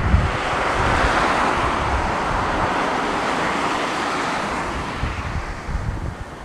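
Boeing widebody jet airliner passing close by on landing approach: a broad engine rush that swells in the first second or two and then fades away, with wind buffeting the microphone.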